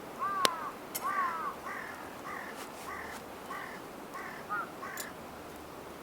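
A bird calling a quick run of repeated arching notes, about two a second, growing fainter. A single sharp snap about half a second in is the loudest sound.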